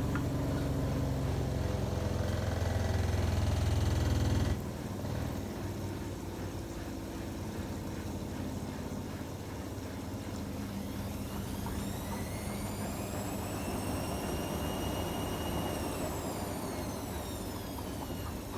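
AEG Öko-Lavamat 73749 washing machine in its 95 °C boil-wash cycle. A steady low hum stops suddenly about four and a half seconds in, leaving the drum's rumble. About ten seconds in, the motor's whine rises in pitch, holds for a few seconds, then falls away near the end.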